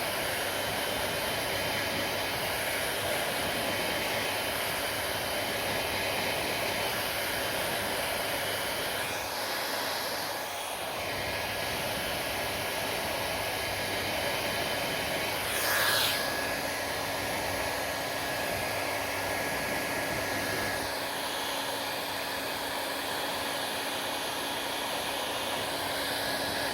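Hair dryer running steadily: a continuous rushing of air with a faint steady whine, its sound shifting a little about ten seconds in and swelling briefly louder about sixteen seconds in.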